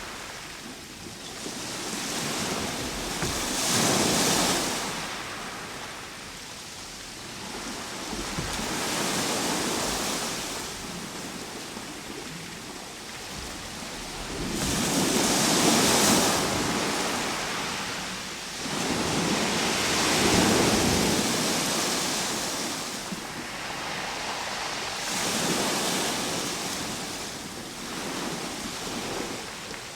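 Ocean waves washing in, a rushing noise that swells and falls back about every five or six seconds.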